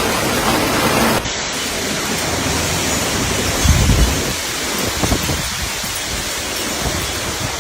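Heavy storm rain with wind, a dense steady rushing hiss, with a low rumble about four seconds in.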